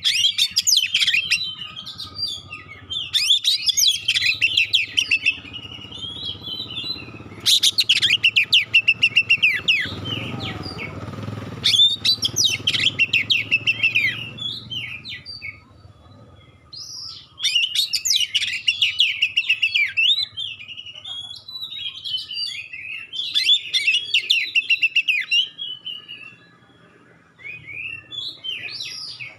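Oriental magpie-robin (kacer) singing in loud phrases of varied rapid chirps and whistles with short pauses between them. A little over seven seconds in comes a dense burst of very fast, sharp repeated notes, the 'tembakan' rapid-fire delivery prized by kacer keepers.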